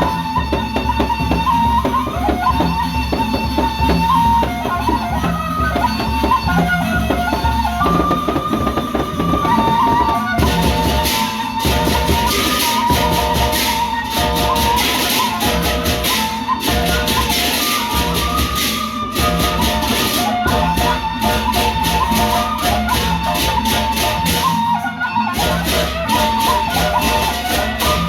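Gendang beleq ensemble playing: a steady beat on large drums, a sustained melody line over it, and loud clashing cymbals that come in about a third of the way through, drop out near the end, then return.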